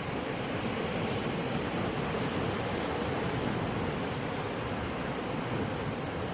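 Sea waves breaking and washing on the shore in a steady, continuous rush, with no distinct single crash.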